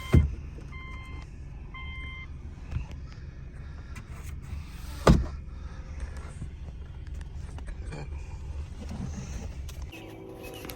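Inside a car, a warning chime beeps three times about a second apart over a steady low hum from the car running. Two sharp clicks come just after the start and about five seconds in, the second being the loudest sound.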